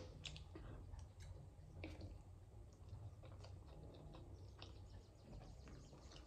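Faint eating sounds: soft, irregular mouth clicks of someone chewing a mouthful of noodles, over a low steady background hum.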